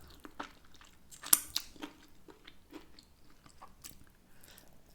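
Mouth-close chewing of chicken wings: a scatter of short, sharp crunching clicks, the loudest just over a second in.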